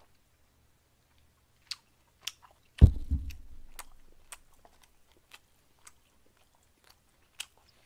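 Close-up chewing of grilled marinated pork: sparse wet mouth clicks with pauses between them. About three seconds in comes one dull thump, the loudest sound.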